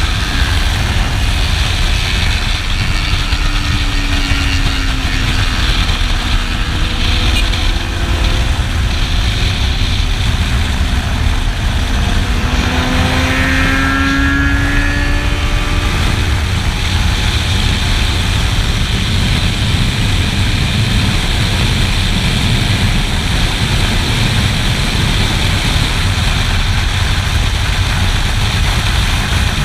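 Motorcycle riding at speed, heavy wind rumble over the microphone with the engine note gliding up and down a few seconds in and again around the middle.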